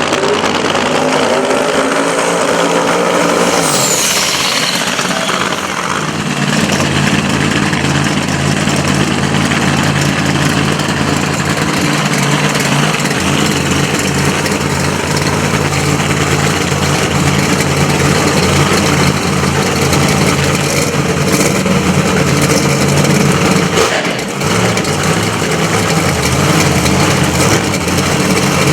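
Drag race car engine idling loudly and steadily, with a brief high falling whistle about four seconds in.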